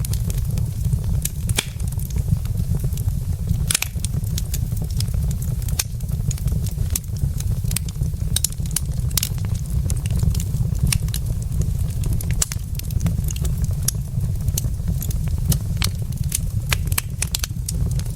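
Wood logs burning in a fireplace, crackling with frequent irregular sharp pops over a steady low rumble.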